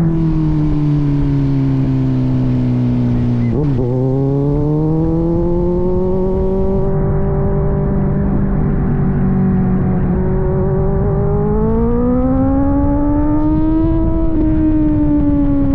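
Kawasaki Z900's inline-four engine through an aftermarket AR exhaust while riding. The engine note falls as the bike slows, with a quick blip about four seconds in. It then holds, climbs gradually as the bike pulls again, and eases off near the end.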